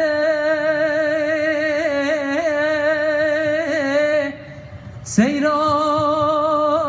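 A voice singing long, held notes with vibrato and small melodic ornaments, in a Kurdish folk song. There is a short break a little past the middle, then a new held note begins with an upward slide.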